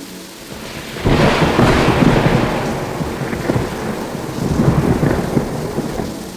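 Thunder cracks about a second in and rolls on loudly for several seconds, swelling again near the end, over rain.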